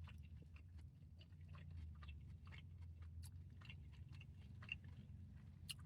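Faint close-up chewing of a mouthful of fried chicken sandwich with pickle: soft, irregular crunchy clicks over a low steady hum.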